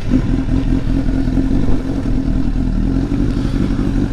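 Honda CBR1000RR's inline-four engine running steadily just after being started.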